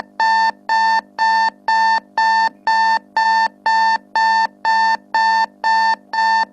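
Electronic alarm clock going off: a loud, steady, high beeping at about two beeps a second.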